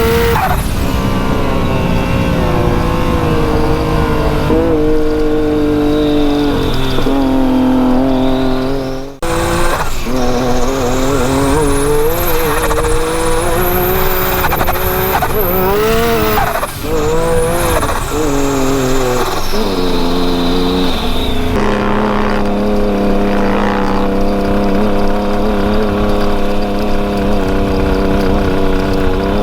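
Big-turbo Yamaha YXZ side-by-side's built three-cylinder engine revving up and down under load, with a high whistle rising and falling through the middle. It drops off briefly about nine seconds in and settles to steady running near the end.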